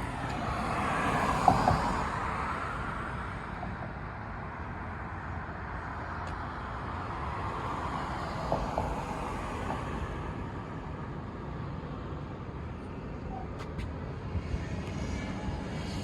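Vehicle noise that swells and fades twice, with a few sharp clicks.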